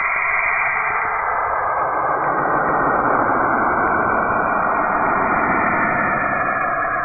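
The 'sound of Saturn': its electromagnetic signals from the magnetic field converted to audio, heard as a steady, dense hiss that fills out lower down about two seconds in.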